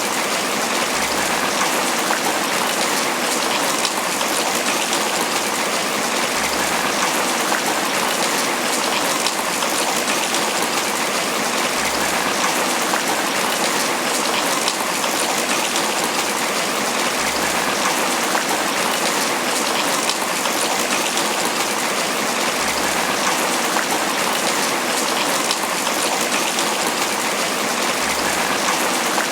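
Steady tropical rain pattering on banana leaves, a dense, even hiss of drops with no letup.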